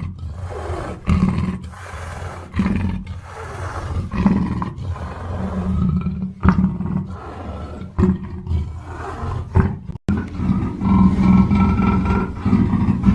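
Black panther roaring in a string of calls, one after another, with a brief break about ten seconds in.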